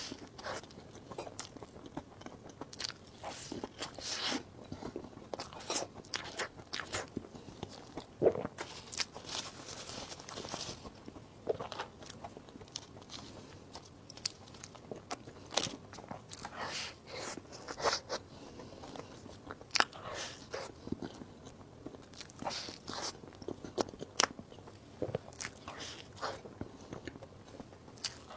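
Close-miked eating: a person biting and chewing soft desserts, with many short, irregular crisp clicks and mouth sounds.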